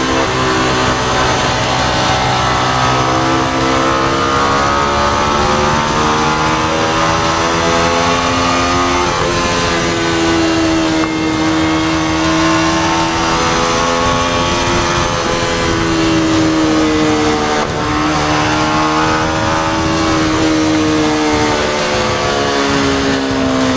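Onboard sound of a 2018 Motorstar Z200S's 200cc single-cylinder engine under way, its pitch rising and falling several times as the rider accelerates and eases off, over steady wind rush.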